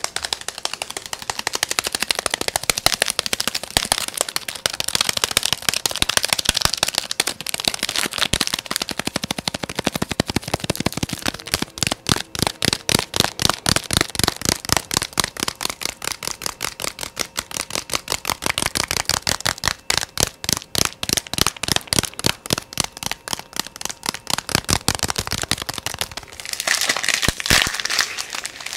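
Fast ASMR tapping: a rapid run of closely spaced taps that settles into an even, steady rhythm through the middle, with a brighter, rustling stretch near the end.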